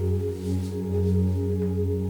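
Steady low drone of several held tones that pulse slightly, with a faint soft rustle about half a second in.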